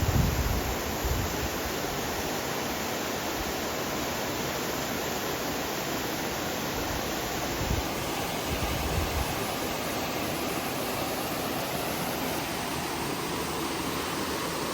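Steady rush of a waterfall, with a few low thumps on the microphone near the start and about eight seconds in.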